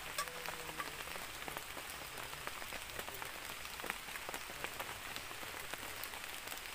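Heavy rain falling steadily, with many separate drops striking close by as short sharp clicks.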